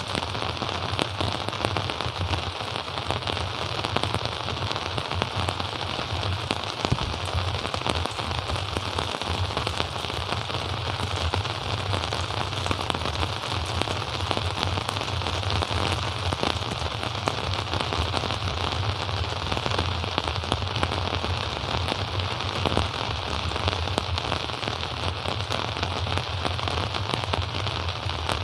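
Steady rain falling, with a dense patter of drops striking surfaces close by.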